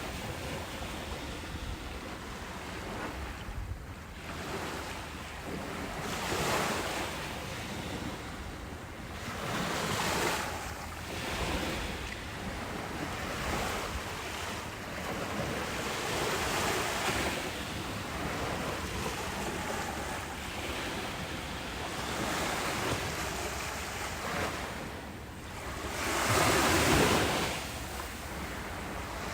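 Ocean waves breaking and washing on a beach, the surf swelling and fading every few seconds, with the biggest wave breaking about 26 seconds in. Wind rumbles on the microphone underneath.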